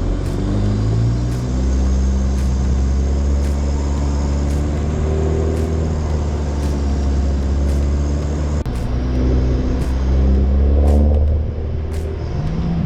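A 4WD's engine running steadily while driving, a continuous low drone with a short rise in pitch near the end as it accelerates.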